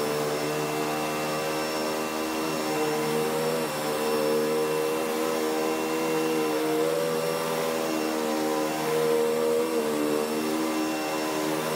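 Kenmore Progressive upright vacuum cleaner running steadily, its motor hum wavering slightly in pitch.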